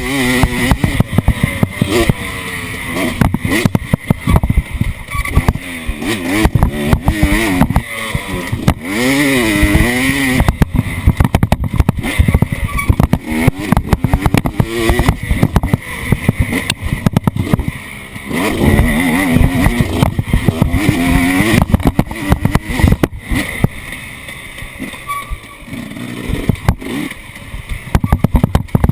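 An off-road vehicle's engine revving up and down over rough ground, with constant knocks and rattles from the ride.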